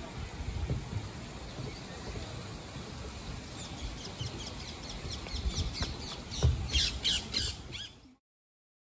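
Birds calling: a run of quick, high, falling chirps and squawks that builds over the second half and is loudest shortly before the end, over a low rumble. The sound then cuts off abruptly.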